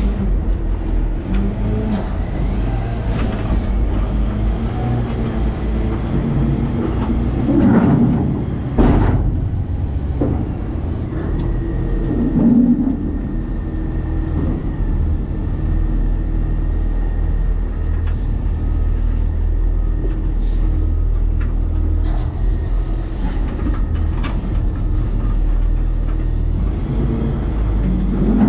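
New Way Sidewinder side-loading garbage truck running, its engine and hydraulics making a steady rumble, with a few heavy knocks and clatters about eight to nine seconds in and again around twelve seconds. A faint steady whine joins about eleven seconds in.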